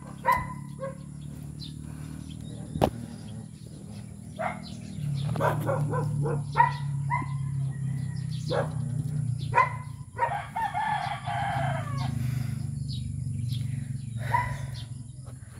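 Short, repeated bird calls, with one longer falling call about ten seconds in, over a steady low drone.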